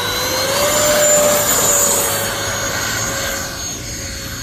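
Freewing L-39 Albatros RC jet's 80 mm electric ducted fan whining at high throttle. The whine holds steady, is loudest about a second in, then slowly fades.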